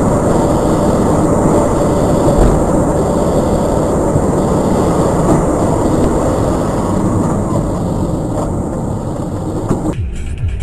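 Steady, loud vehicle noise in motion, a dense rumble with no distinct engine tone. It cuts off suddenly near the end, where a quieter sound with sharp clicks takes over.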